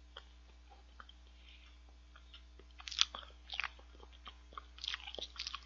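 Close-miked mouth sounds of a man eating cheesecake. There are a few faint ticks at first, then a run of sharp chewing smacks and clicks from about three seconds in.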